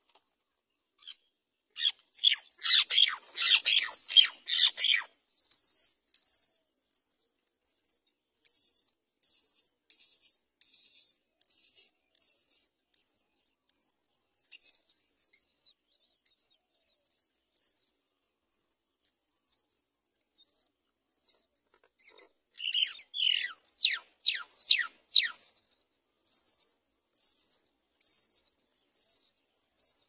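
Great myna nestlings begging at the nest: thin, high-pitched calls repeated steadily with short gaps. Two louder bouts of harsh, rapid calls break in, about two seconds in and again around twenty-two seconds.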